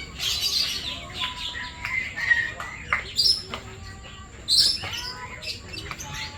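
Several birds chirping and calling in quick, overlapping short calls, with a few louder sharp calls around the middle.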